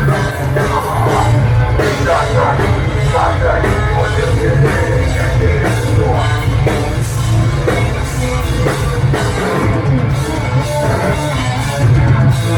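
Heavy metal band playing live and loud: distorted guitars, bass and pounding drums, with shouted vocals in the first few seconds.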